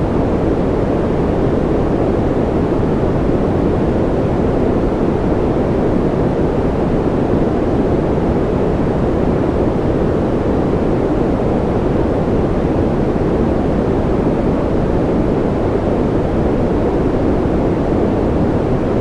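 Steady white-noise sleep sound: a constant, even rushing hiss, deep-toned rather than bright, that never changes.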